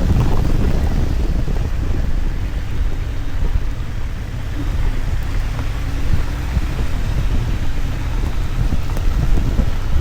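Wind buffeting the microphone of an action camera on a moving motorcycle in the rain, a heavy low rumble that rises and falls, with rain and road noise over it.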